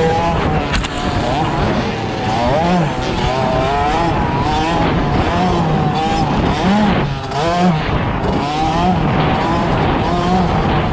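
Dirt bike engines revving on a motocross track, pitch climbing and dropping over and over as the riders open and close the throttle.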